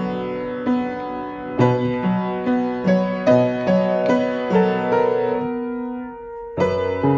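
Solo piano playing a slow ballad, with bass notes under sustained chords and melody notes. About six seconds in, the notes die away into a short pause before playing resumes.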